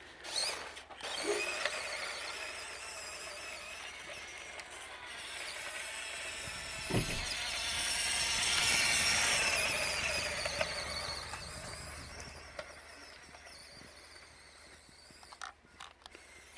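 WPL B16 6x6 RC truck driving, its small electric motor (a replacement WPL 180) and gearbox whining high. The whine gets louder toward the middle and fades away near the end.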